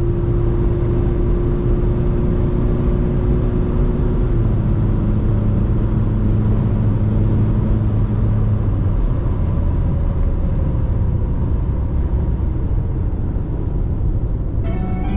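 RAM Rampage's 2.2 turbo diesel engine and road rumble on the move, a steady low drone whose engine note drops in pitch about four seconds in. Music begins in the last moment.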